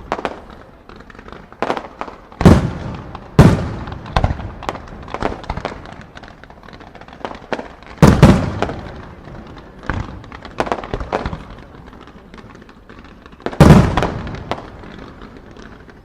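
Aerial fireworks shells bursting in quick, irregular succession: sharp booms with rolling echoes, the heaviest about two and a half, three and a half, eight and thirteen and a half seconds in, with lighter reports between.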